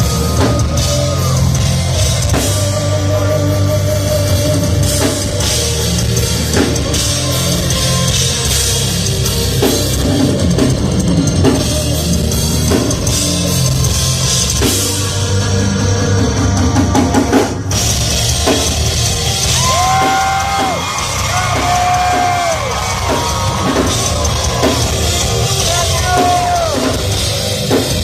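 A rock band playing live and loud, driven by a full drum kit with cymbals. A brief break comes about 17 seconds in, then a held, stepping melody line enters over the band.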